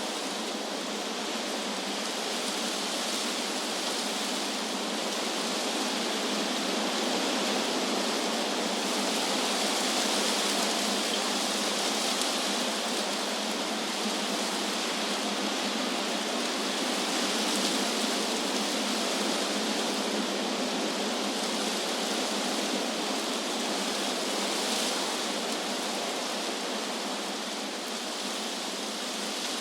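Wind blowing through trees, a steady rushing hiss of leaves that swells and eases slowly.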